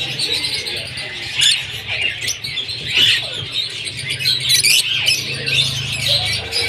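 A group of lovebirds chattering, with many sharp, high chirps and squeaks overlapping continuously. A low steady hum runs underneath.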